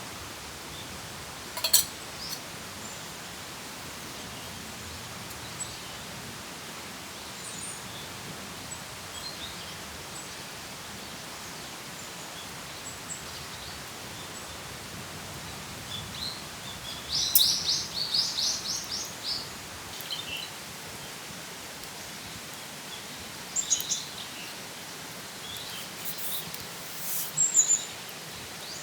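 Woodland ambience: a steady hiss of background noise with wild birds calling, a rapid run of high chirps about midway and short chirps near the end. A single sharp click comes about two seconds in.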